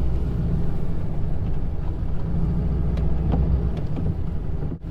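Snow plow truck's engine running steadily under load as it pushes snow, a low rumble.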